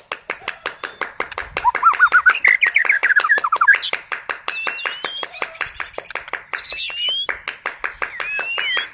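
White-rumped shama singing: quick trilled phrases, then rising whistled notes, over a fast, even run of dry clicking notes (the shama's 'kretekan'), about ten a second.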